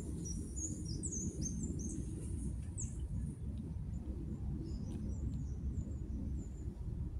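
Small birds chirping: a quick run of short, high chirps over the first three seconds, then fainter scattered chirps later, over a steady low outdoor rumble.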